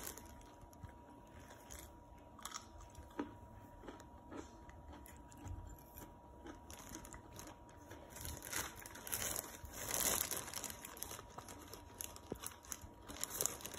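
Someone chewing food close to the microphone, in crunchy bursts that grow louder after the first half. A few light clicks of a fork come early on.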